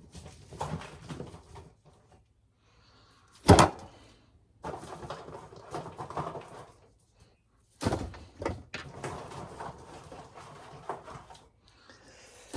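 Dry ears of corn being dug through and tossed into a pail: bouts of rustling and clattering, with a sharp knock about three and a half seconds in and another near eight seconds.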